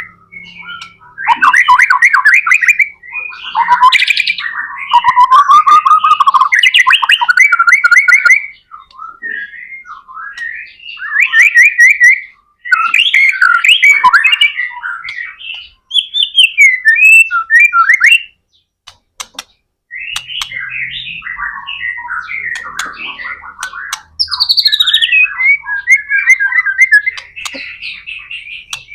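White-rumped shama (murai batu) singing loud, varied song: fast whistled and chattering phrases in bursts of a few seconds, separated by short pauses.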